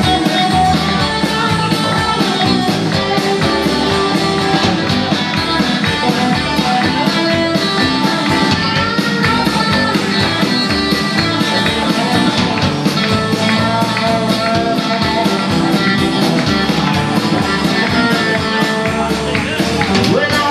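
Live country-rock band playing an uptempo song: guitar over a steady drum beat.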